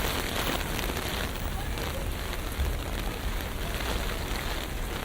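Steady rain on a city street, with a low traffic rumble and indistinct voices of passers-by.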